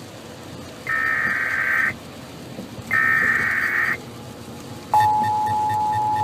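Emergency Alert System broadcast for a tornado warning: two one-second bursts of warbling digital header tones, then about five seconds in a loud steady attention tone comes on.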